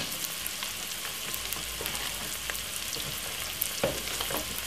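Onion, garlic and spring onion frying in vegetable oil in a pan with seasoning, sizzling steadily, with a couple of light knocks about four seconds in.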